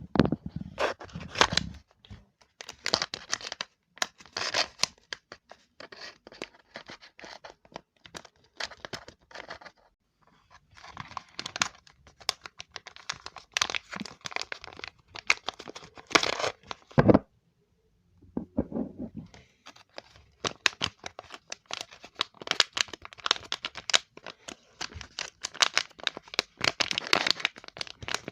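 Close-up crinkling and crackling of a handled material, in runs of rapid sharp crackles. The runs break off briefly about ten seconds in and again after about seventeen seconds.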